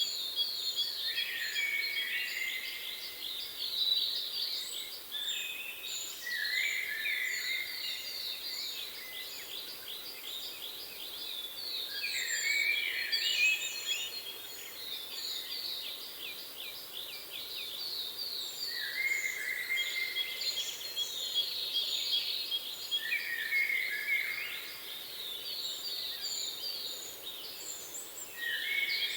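Songbirds singing continuously in rapid, overlapping trills and chirps, with short high thin notes repeating above them.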